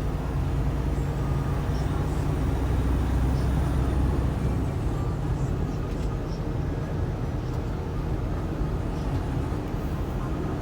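Truck driving along the road: a steady low engine rumble with road noise, easing off a little about four seconds in.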